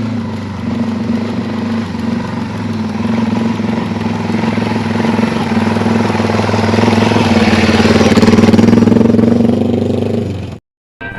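Yamaha TW200's single-cylinder four-stroke engine running at a steady pitch, growing louder over several seconds, then cutting off suddenly near the end.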